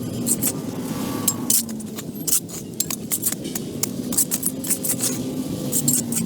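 Frequent sharp metallic clinks and scrapes, irregular, over a steady low rumble.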